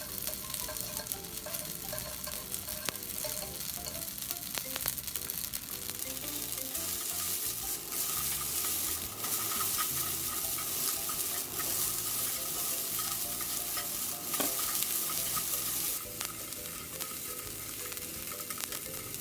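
Yakisoba noodles sizzling in a frying pan over medium heat while being stirred and loosened, with a couple of sharp utensil clicks. The sizzle gets louder for a stretch in the middle.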